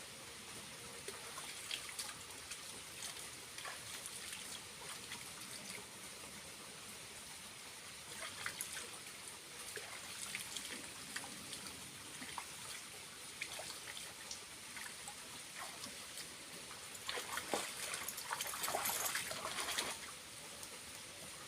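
Water from a small waterfall trickling and splashing steadily, with a louder stretch of splashing near the end.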